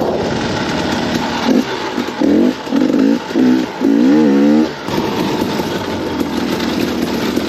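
KTM 250 XCW two-stroke enduro engine running under way, blipped up and down in four or five short bursts of revs about halfway through, then settling back to a steady run.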